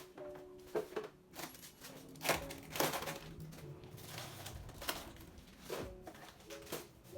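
Clicks, knocks and crinkling of plastic containers and packaging being handled while a refrigerator is cleaned out, the loudest knocks a little past two seconds in, over soft background music.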